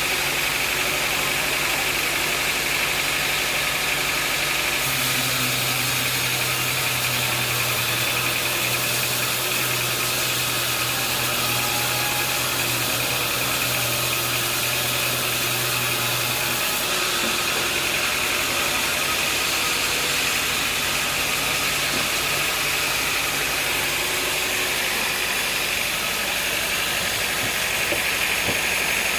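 Sawmill machinery running steadily with an engine-like drone. A deeper steady hum joins about five seconds in and stops about seventeen seconds in.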